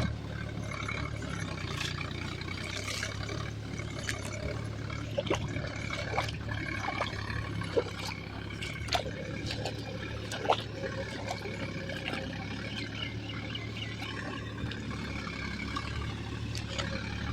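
Heavy diesel engine running steadily, with scattered sharp knocks and clanks over it.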